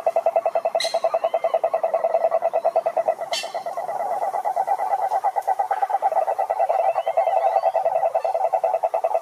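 Frogs calling in a pond chorus: one loud, rapid pulsing trill runs on without a break over a fainter, higher trill. A couple of brief sharp calls and a few short chirps cut in over it.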